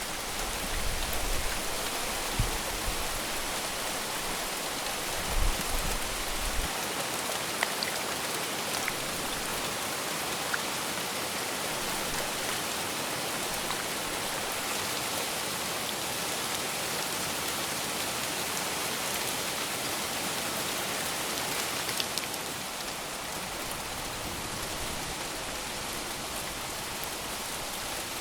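Steady rain, a dense even hiss with a few separate drops tapping through it. A low rumble runs under it for the first several seconds, and the rain turns slightly softer about three-quarters of the way through.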